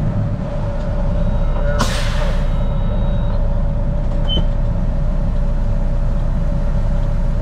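Semi truck's diesel engine running steadily, with a short hiss of air from the air brakes about two seconds in.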